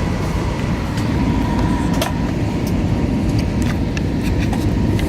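Steady cabin noise of an Airbus A320 airliner on final approach: a constant low rumble of engines and airflow, with a faint steady tone that fades about two seconds in and a few light clicks.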